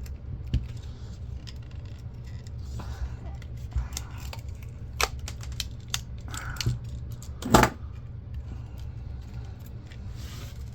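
Scattered clicks and small rattles of metal and plastic parts being handled and pried while an old camcorder is taken apart, with one louder clack about three-quarters through. A steady low hum runs underneath.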